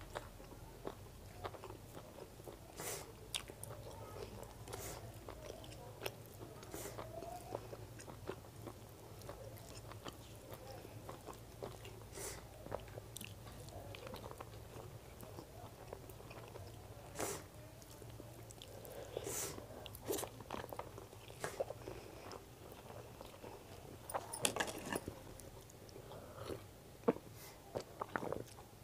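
A person chewing mouthfuls of chicken biryani eaten by hand, close to a clip-on microphone: soft wet mouth sounds with scattered short clicks.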